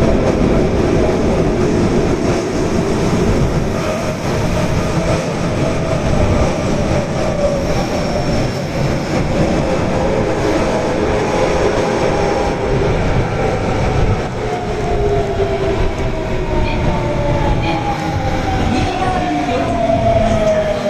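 Osaka Metro Tanimachi Line subway train running, a steady rumble of wheels on rail. In the last few seconds, motor whine tones slide down in pitch as the train slows.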